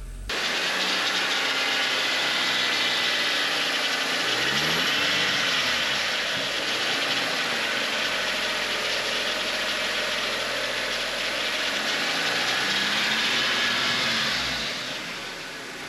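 2007 Audi A4's 2.0 TFSI four-cylinder engine, just rebuilt, idling roughly. It has trouble holding idle, and its revs rise and fall back twice. The owner puts the rough idle down to misfires from low fuel pressure, caused by a torn low-pressure hose at the high-pressure fuel pump.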